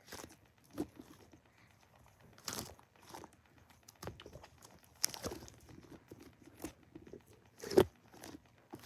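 A giant shark squishy toy being squeezed and handled, giving irregular crinkling and crunching sounds, the loudest a little over three-quarters of the way through.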